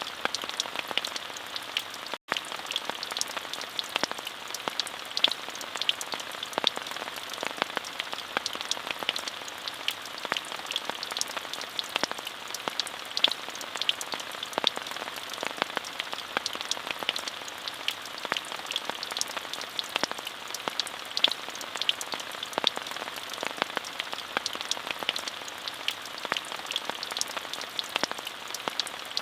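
Steady, even rain, a constant hiss dotted with many small sharp drop ticks. The sound cuts out for a split second about two seconds in.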